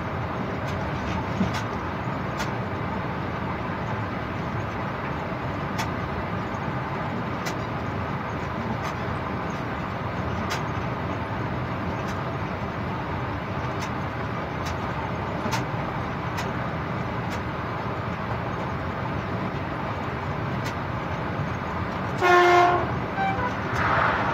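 Steady running noise of a train heard from the locomotive cab, with faint sharp clicks about every second. Near the end the horn gives one short toot.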